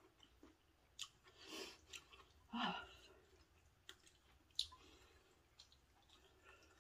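Quiet eating sounds: a person chewing noodles, with a few sharp clicks of wooden chopsticks and a spoon against a ceramic bowl. A short, louder mouth noise comes a little before three seconds in.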